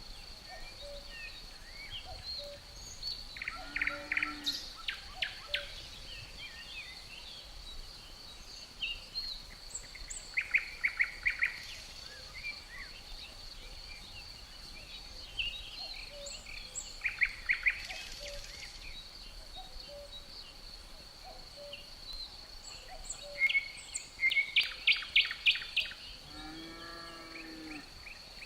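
A songbird repeats a short phrase of rapid notes four times, about every six seconds, over a steady high-pitched drone of crickets. A lower, pitched bird call sounds briefly once early on and again near the end.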